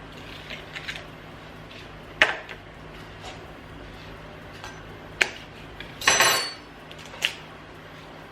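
Kitchen bowls and utensils knocking and clinking on a countertop: a few sharp knocks, and about six seconds in a half-second clatter that rings briefly.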